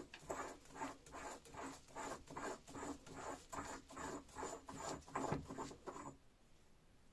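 Rhythmic hand-tool strokes on a metal jack part, about three a second, stopping about six seconds in.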